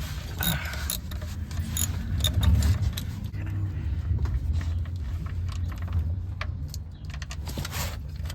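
Hand tools and a socket on a 13 mm bolt clinking and rattling against the engine's metal in irregular small clicks, over a low steady rumble.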